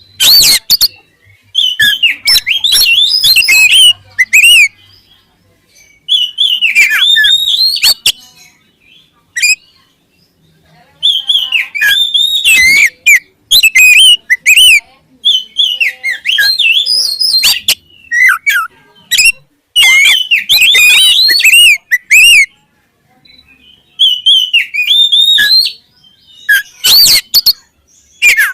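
Oriental magpie-robin (kacer) singing loudly in bursts of rapid, varied whistled notes, phrases of one to three seconds separated by short pauses.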